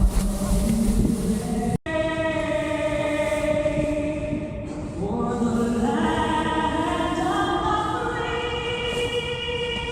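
Wind noise on the microphone with a low engine hum, cut off abruptly about two seconds in. A choir follows, singing long, held chords.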